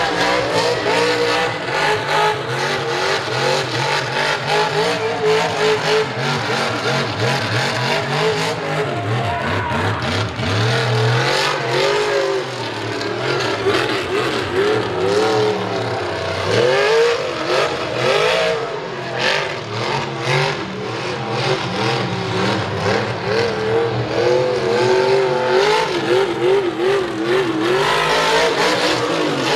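Mega truck's V8 engine revving hard during a freestyle run, its pitch rising and falling over and over, with tyre and crowd noise under it.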